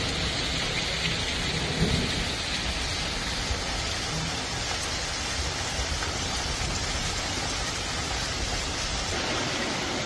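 Heavy rain falling hard and steadily, a dense even hiss with a low rumble underneath; a brief louder low thump comes about two seconds in.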